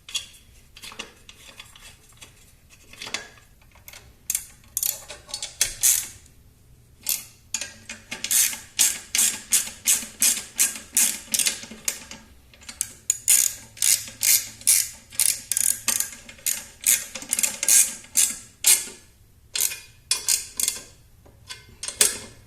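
Ratchet wrench clicking as the muffler bolts are tightened. The first few clicks are scattered; then they come in quick runs of about three or four a second, with short pauses between runs.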